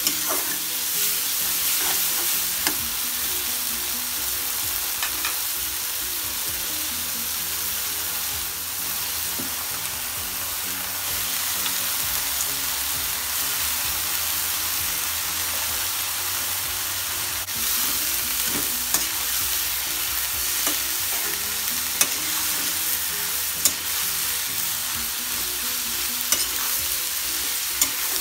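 Small shrimp frying in oil with a steady sizzle while a metal spatula stirs and scrapes the pan, with scattered sharp clicks and taps of the spatula on the pan. About halfway through, a handful of red amaranth leaves goes into the pan and is tossed with the shrimp.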